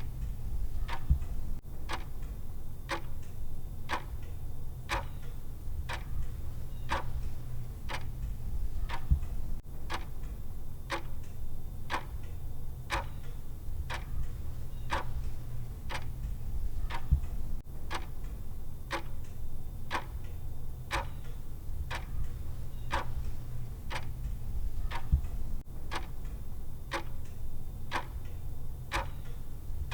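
Clock ticking at about one tick a second, evenly spaced, over a steady low hum.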